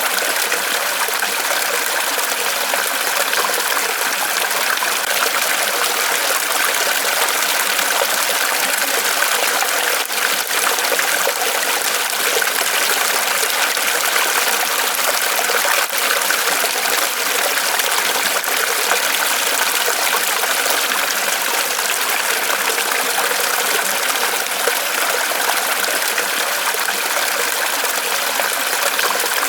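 Small waterfall of water trickling and splashing steadily from a tree trunk.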